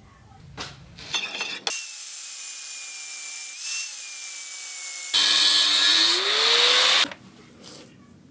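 Power tool cutting or grinding steel square tubing: a loud hiss with a thin wavering whine, growing louder about five seconds in with a pitch rising, then stopping abruptly about seven seconds in.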